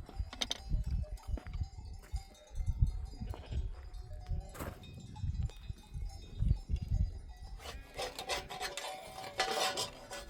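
Flock of sheep and goats with bells, the bells clinking and jingling, more densely near the end, over repeated low rumbling thumps.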